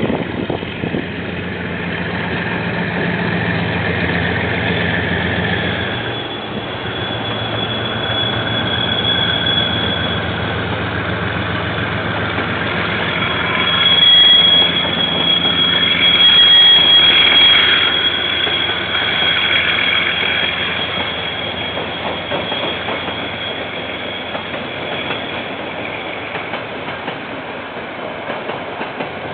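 KiwiRail train passing: a steady low diesel locomotive engine for the first several seconds, then wagons rolling by with a high, steady wheel squeal that is loudest around the middle.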